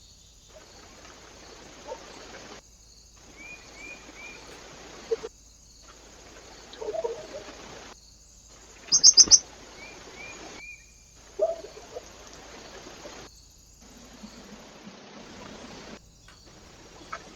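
Small birds at a bird feeder giving short chirps over a steady trail-camera hiss, with soft tapping and rustling. A loud run of four quick, sharp high notes comes about nine seconds in. The sound breaks off abruptly every few seconds where the clips are cut together.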